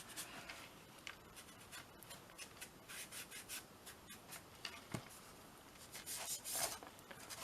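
Short, scratchy strokes of a colouring tool rubbing over a canvas collage surface, faint and irregular, coming thicker near the end.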